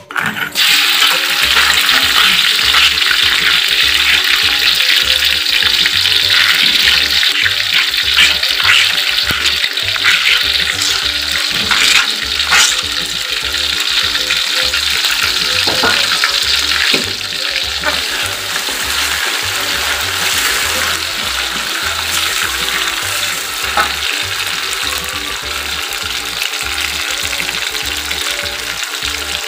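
Chili spice paste hitting hot oil in an aluminium wok, sizzling loudly from the moment it lands, with a metal spatula clicking and scraping as it is stirred. This is the frying of the spice paste until fragrant. The sizzle eases a little about halfway through.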